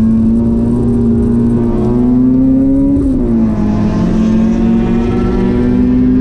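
Nissan Sentra SE-R's SR20VE 2.0-litre four-cylinder under hard acceleration, heard from inside the car: the engine note climbs, drops sharply with an upshift about three seconds in, then climbs again.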